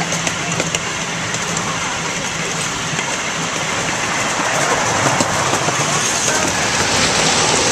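Miniature park train running along its track: a steady rumble of wheels on rail with a faint low engine hum, and a few sharp clicks in the first second and again about five seconds in.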